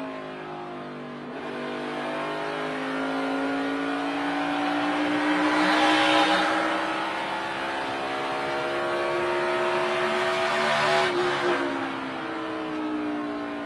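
NASCAR Cup car's V8 engine heard from the in-car camera, its pitch climbing steadily under full throttle, then falling sharply near the end as the throttle is lifted. A louder rushing noise swells about six seconds in.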